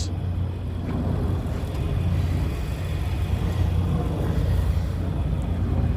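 Radial engines of World War II warbird aircraft running, a steady deep rumble.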